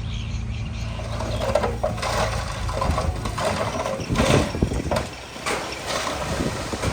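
Heavy-equipment diesel engine running steadily, with a few metallic clanks and rattles.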